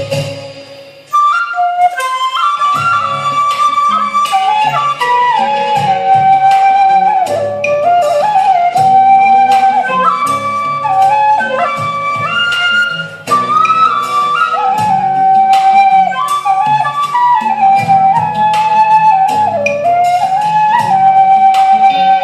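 Vietnamese bamboo flute (sáo trúc) playing a slow, stepwise melody over a backing accompaniment of chords and light percussion, the flute coming in about a second in after a brief pause.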